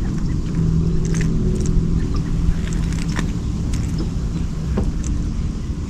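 Boat motor running steadily with a low rumble and hum, with scattered light clicks over it.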